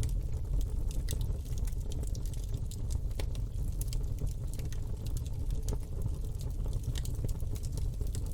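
Campfire burning, with irregular crackles and pops of the burning wood over a steady low rumble.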